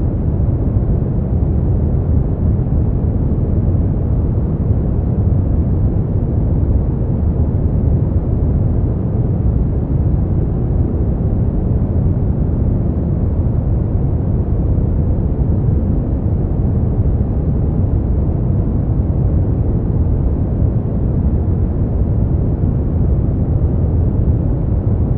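Steady brown noise: a deep, even rumble-like hiss with its weight in the low end and little above a few thousand hertz, unchanging throughout.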